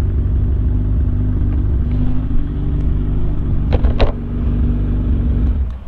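Sport motorcycle's engine and exhaust holding a steady drone at cruising speed, under heavy wind rumble on the microphone. It eases off right at the end.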